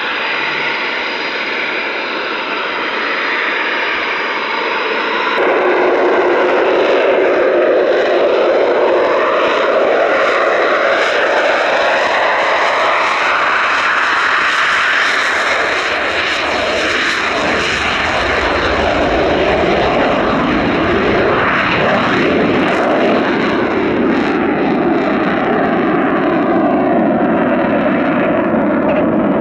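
Eurofighter Typhoon jet engine noise, jumping suddenly louder about five seconds in, with sweeping tones rising and falling as the aircraft moves past, and a deep rumble building in the second half.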